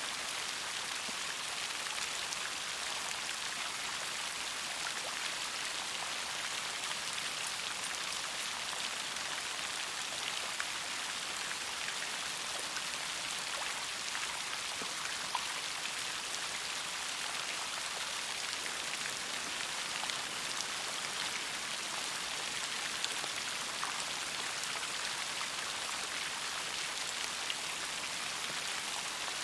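Steady rain: an even hiss of falling water with many small, sharp drop ticks scattered through it, unchanging throughout.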